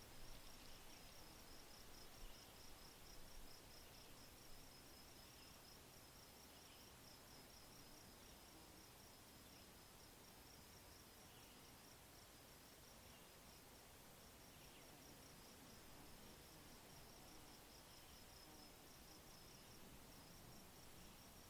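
Faint nature ambience: an insect chirping in a rapid, even pulse over a steady hiss, pausing briefly twice, with softer, lower chirps every second or two.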